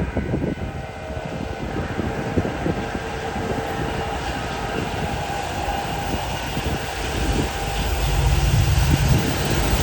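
Freight train led by a Union Pacific EMD SD70ACe diesel locomotive approaching: a low diesel rumble that grows louder from about seven seconds in.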